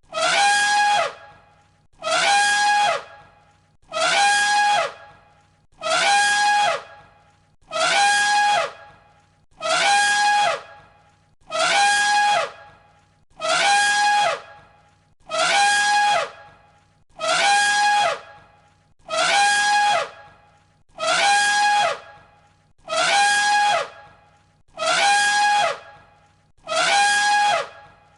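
Elephant trumpeting: the same short trumpet call looped over and over, about one call every two seconds, each call holding its pitch and then dropping at the end.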